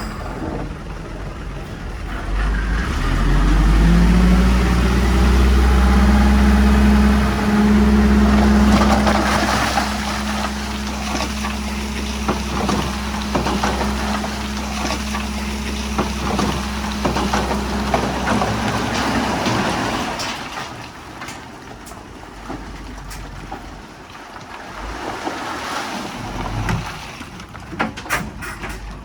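Heavy diesel earthmoving engine revving up about three seconds in and running hard under load, with stones clattering and grinding through the middle. Near the end the engine eases off, leaving a few scattered rock knocks.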